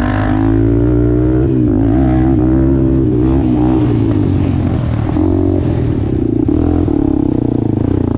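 A small off-road engine running loudly, its pitch rising and falling as it is revved.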